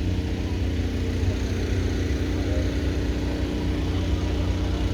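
A vehicle engine running steadily at an unchanging speed.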